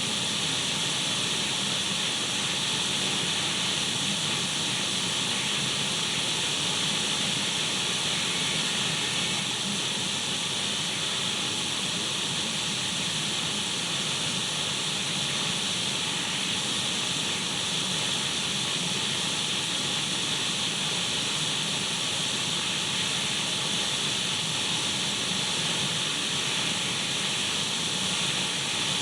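Radio static: a steady hiss of untuned radio noise, even and unchanging, brightest in the upper range.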